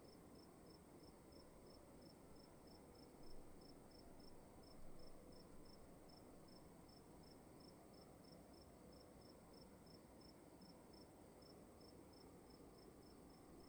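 Faint cricket chirping steadily, about three to four even chirps a second, over a continuous high-pitched hiss and low room tone. Two soft low thumps come about three and five seconds in.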